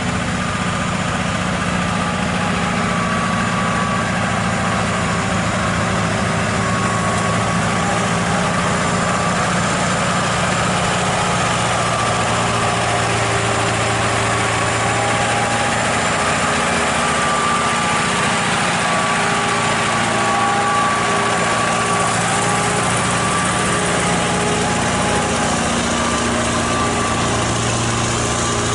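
An engine idling steadily, its pitch drifting slightly up and down.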